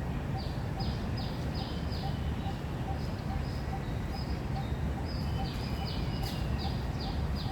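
Birds calling in a park: one bird repeats short, high, slightly falling notes in runs of several, two to three a second, while a fainter, lower note repeats evenly about twice a second. A steady low rumble runs underneath.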